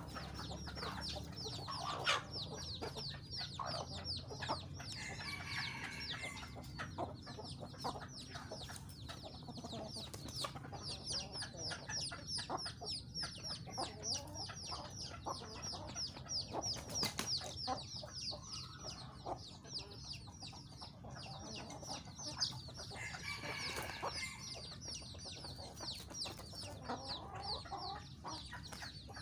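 Chickens clucking now and then over a constant dense run of quick, high chirping.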